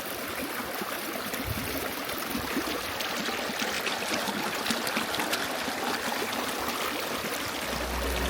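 Fast-flowing river water rushing steadily and loudly, with music starting to come in near the end.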